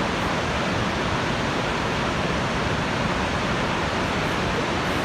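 The Rhine Falls: a steady, deafening roar of huge masses of water plunging down, an even rushing noise without a break.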